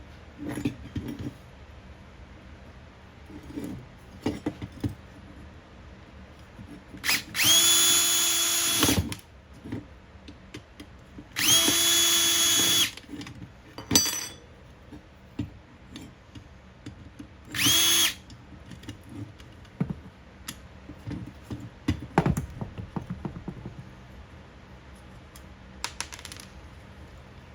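Cordless power drill/driver spinning at a steady pitch in three bursts, the first two about a second and a half each and the last brief. Clicks and knocks of parts being handled fall between the bursts.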